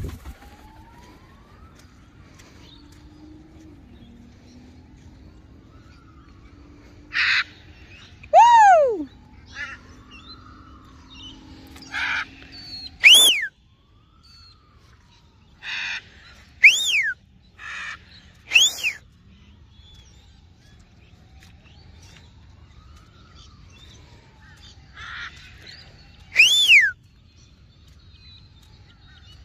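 Loud squawking bird calls, about eight spread through the stretch. Some are harsh and rasping; others are clear calls that rise and then fall in pitch.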